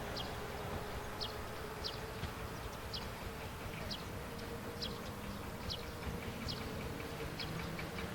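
Countryside field ambience: an insect buzzing steadily, with a short high chirp repeated about once a second and a low rumble of wind underneath.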